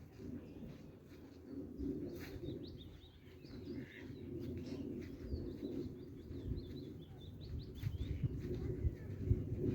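Small birds chirping, many short scattered calls and quick little whistles, over a steady low rumble.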